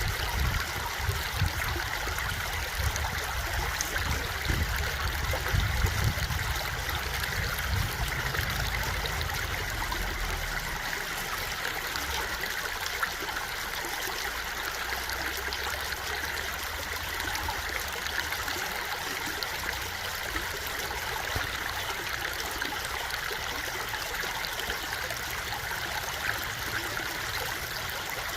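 A stream of water flowing and trickling steadily, with a low rumble under it that fades out about ten seconds in.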